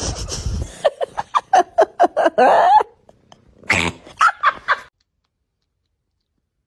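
A pet animal giving quick runs of short, high yaps, about four a second, in two bursts with a short pause between them.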